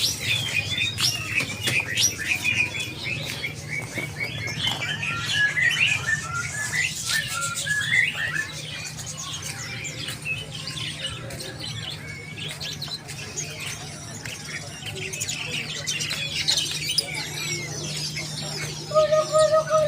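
Many caged songbirds chirping and squawking together in quick, overlapping calls and trills, with a steady low hum underneath. A louder, held call stands out near the end.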